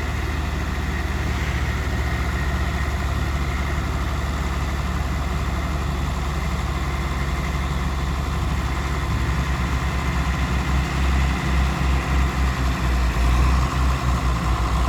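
John Deere tractor engine running steadily, then in the last third it grows louder and pulses unevenly as it works hard to pull the tractor out of deep mud.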